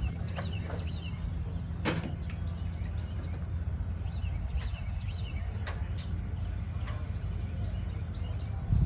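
An engine running at a steady idle, a low even hum, with birds chirping now and then and a few light clicks. Near the end a short, louder burst comes and the engine hum stops.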